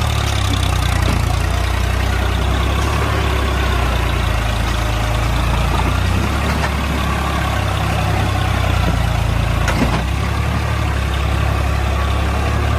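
Swaraj 735 tractor's diesel engine running steadily at a constant low throb, with one sharp click just before ten seconds in.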